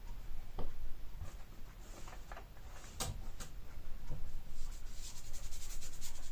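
Scratching and scraping of hand work on a hard painted surface, with scattered small clicks and two sharp taps about three seconds in, then a quick run of short scratchy strokes near the end.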